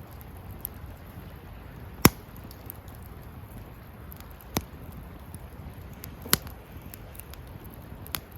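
Wood campfire burning with a steady low rush, and sharp pops and crackles from the wood at irregular intervals: four clear pops, the loudest about two seconds in.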